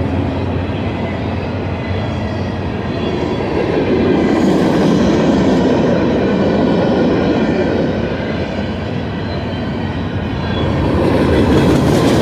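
Freight train of empty cars rolling past at close range: a steady rumble of steel wheels on rail with clickety-clack over the joints, swelling louder about four seconds in and again near the end.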